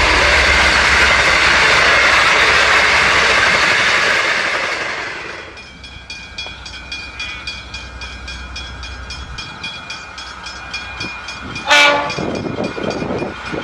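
Carriages of a loco-hauled V/Line passenger train rushing past close by with wheel clatter, giving way about five and a half seconds in to quieter track-side sound. Near the end, an approaching V/Line N class diesel locomotive gives one short horn blast.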